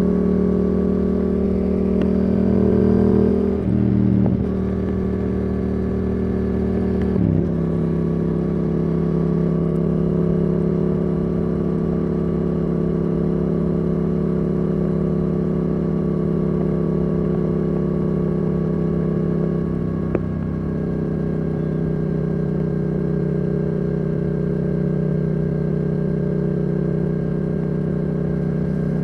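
Yamaha R7's CP2 parallel-twin engine through a Yoshimura R77 exhaust, heard on board while riding at steady revs. The engine note steps down briefly about four and seven seconds in, and again around twenty seconds in.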